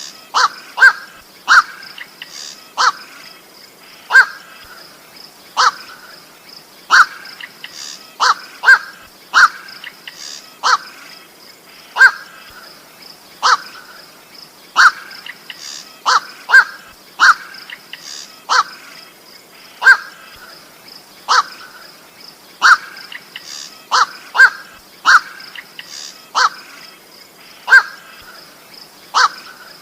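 Recorded calls of the koak bird (black-crowned night heron): short harsh single 'kwak' calls, about one every second or so, some in quick pairs, over a faint steady high hiss.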